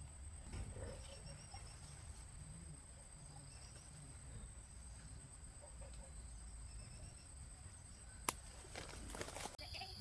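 Faint rural outdoor ambience: a steady high-pitched whine over a low rumble, with faint clucking like domestic fowl. A sharp click comes near the end, followed by a second of rustling noise.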